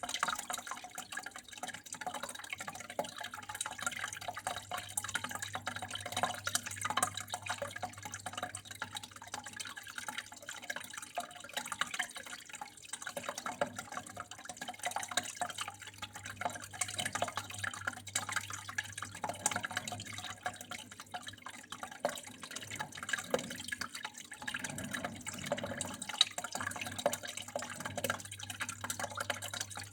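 Flowing water trickling steadily, with a dense, irregular patter of drips and small splashes, over a faint steady low hum.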